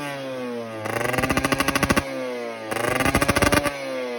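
Yamaha TZR150 single-cylinder two-stroke engine revved in two short throttle blips, about a second in and about three seconds in. Each blip has a rapid, rattling exhaust note, and the pitch glides back down toward idle between them.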